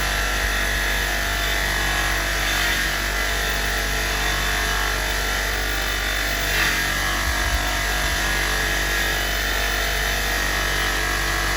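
Electric rotary wire brush running steadily against a metal box spanner, scouring off dirt and rust to bring up the stamped markings.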